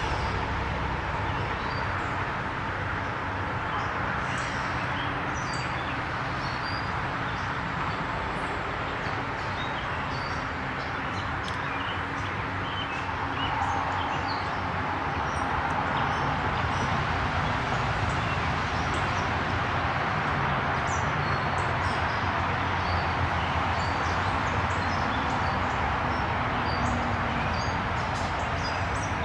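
Many short, high bird chirps and calls scattered throughout, over a steady rushing background noise.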